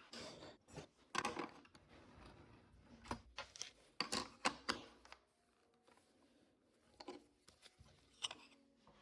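Wood and hand tools being handled at a workbench: irregular knocks, clicks and short scrapes, busiest in the first half, with a quieter stretch around the middle.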